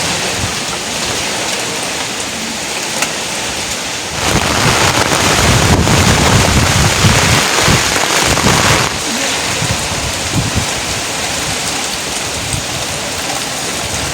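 Steady rain falling on a surface, swelling louder for about five seconds in the middle before easing back.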